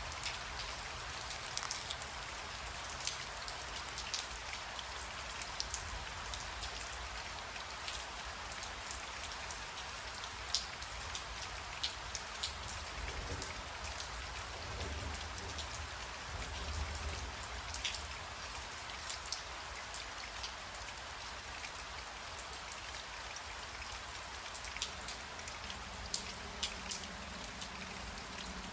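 Steady rain falling, with individual drops clicking close by. A low rumble swells briefly in the middle, likely distant thunder, and a faint low hum comes in near the end.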